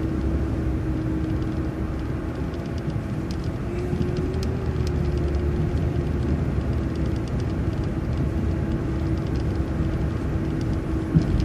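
City transit bus driving: steady engine and road rumble with a constant whine that rises slightly about four seconds in.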